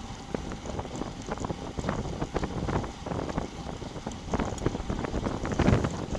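Wind buffeting the microphone of a bicycle-mounted action camera while riding, a rough low rumble that rises and falls in uneven gusts, loudest near the end.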